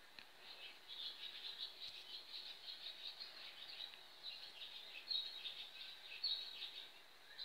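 Birds chirping faintly: a steady stream of short, high chirps, with a couple of louder ones in the second half.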